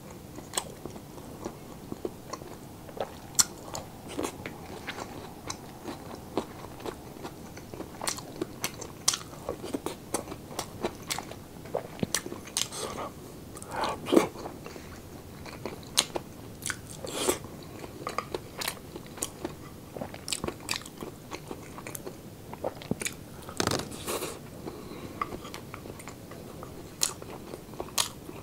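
Chewing and biting mouthfuls of crunchy pork sisig with fresh red chili and rice: many sharp, irregular crunches and mouth clicks, a few longer and louder ones about halfway through and again near the end.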